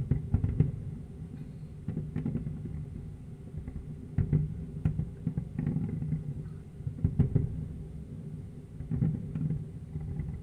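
Fireworks going off in an irregular series of sharp bangs, several a second at times, over a steady low background hum.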